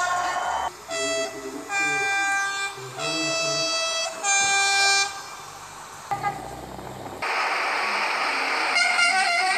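Train horn sounding a series of short blasts, one after another, over the first five seconds. From about seven seconds in, a loud, even rushing noise takes over.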